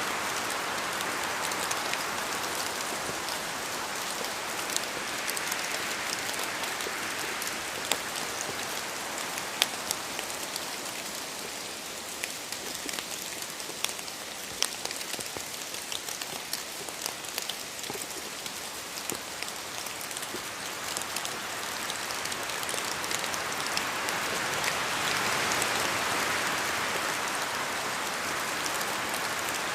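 Steady rain falling in a forest, a dense hiss with many sharp drop hits close by. The rush eases in the middle and swells again toward the end, as wind moves the rain through the trees.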